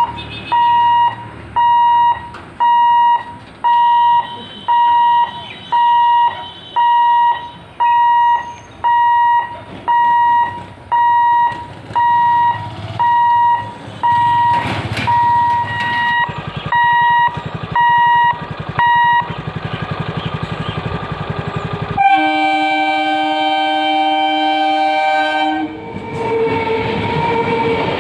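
Level-crossing warning beeper sounding about once a second, stopping about two-thirds of the way through as an EMU local train's running noise builds. The train's horn then gives one long multi-tone blast of about three and a half seconds, and the train carries on running past.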